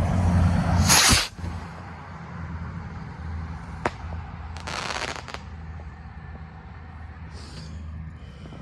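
Fireworks going off around the area over a steady low rumble. There is a loud burst about a second in, a single sharp crack near four seconds, another burst around five seconds and a fainter one near the end.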